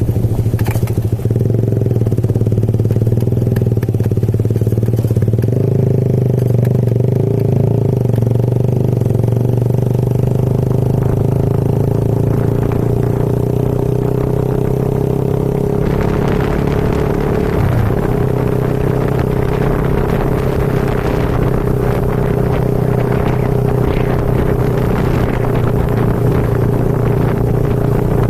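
Motorcycle engine running at a steady speed, with a steady hum. About sixteen seconds in, a loud hissing rush joins it.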